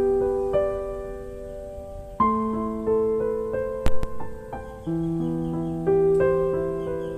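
Slow, gentle piano music with long held notes, a new note or chord every second or so. A single sharp click sounds about four seconds in.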